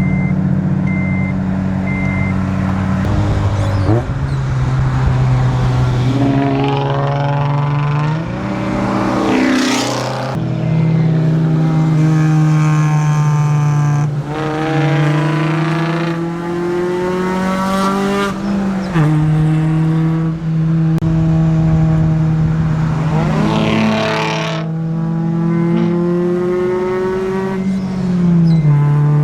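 A car engine pulling through the gears on the road: its pitch climbs, then drops at each shift, about five times. Other cars whoosh past now and then, and a short beep repeats near the start.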